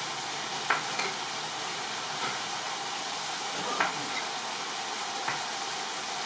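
Chicken tikka frying in oil in a large pan: a steady sizzle, with a few sharp clicks.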